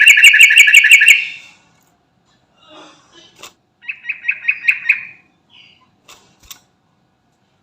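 Sooty-headed bulbul (trucukan) singing: a rapid run of bright, evenly repeated notes, about eight a second, that stops about a second in. Soft chirps follow, then a second, shorter run of the same notes around four seconds in, and a few faint chirps.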